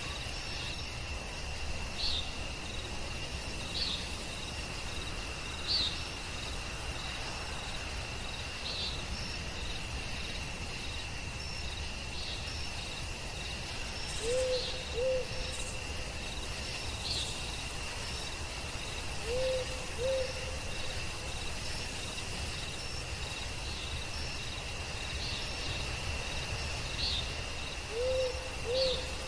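Night forest ambience: a steady high insect trill, like crickets, with a short high chirp about every two seconds. An owl hoots in quick pairs of two short notes, once about halfway through, again a few seconds later and once near the end.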